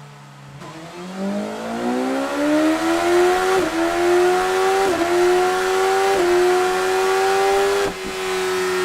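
BMW S1000 XR inline-four engine with a Scorpion Serket Parallel slip-on exhaust revving up under load on a dyno. The pitch climbs steeply for a couple of seconds, then keeps rising slowly with a few brief dips, and the level drops slightly near the end as the pitch levels off.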